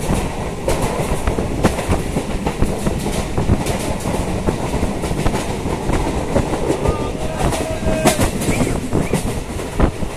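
Suburban electric local train running at speed, with a steady rumble and wheels clacking irregularly over the rail joints.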